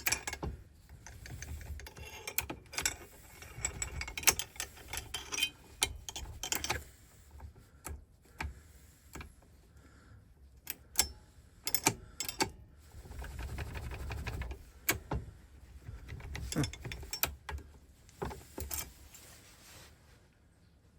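Metal clicks and rattles of a freshly cut key being pushed in, turned and jiggled in a Ford five-pin ignition lock cylinder. The key binds, and the locksmith suspects the cut is off by a tiny bit. The clicks come irregularly, with short pauses between bursts.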